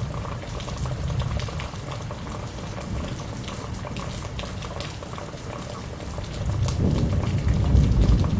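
Heavy monsoon rain falling steadily, with many small drips and splashes. About seven seconds in, a low rumble of thunder builds and grows louder.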